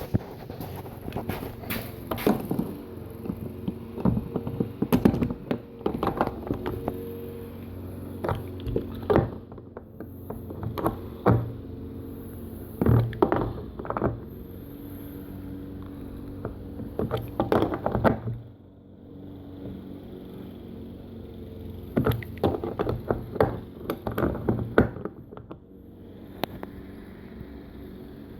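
Irregular clicks, knocks and scrapes of a plastic sink drain fitting being worked and tightened by hand onto a gas tank filler neck. A small engine drones steadily underneath: a neighbour's lawnmower.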